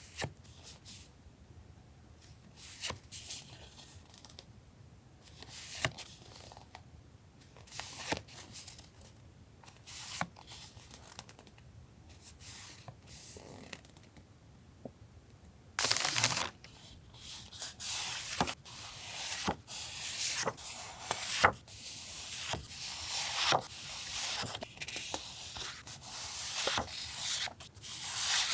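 Paper and plastic stationery packaging being handled: scattered rustles and light taps, turning into denser, louder crinkling and rustling about halfway through.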